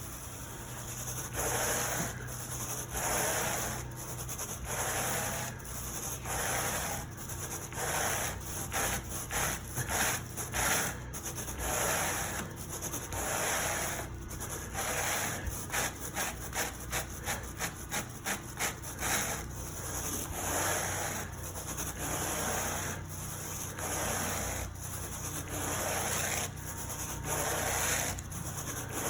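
Carpet rake dragged through carpet pile in repeated scraping strokes, about one a second, quickening to several a second around the middle, over a steady low hum.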